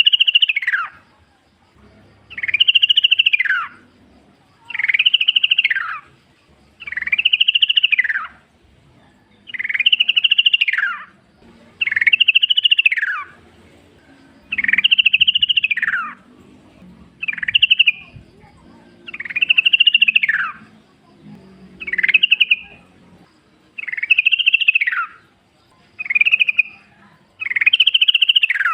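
Yellow-vented bulbul (trucukan) singing a loud, rattling phrase about every two seconds, each phrase rising then falling in pitch, roughly thirteen times in a row.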